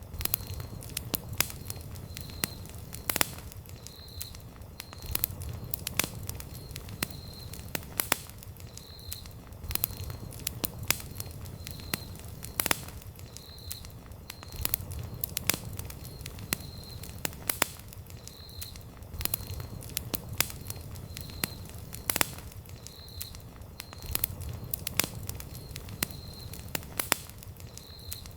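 Wood campfire crackling: irregular sharp pops and snaps, a few much louder than the rest, over a low steady rumble.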